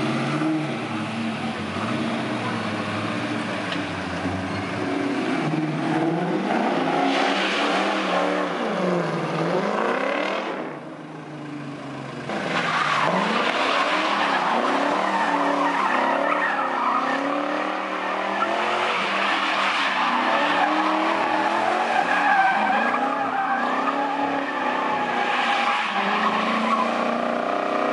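V8-swapped Ford Focus RS engine revving up and down hard as the car drifts, with tyres skidding on tarmac.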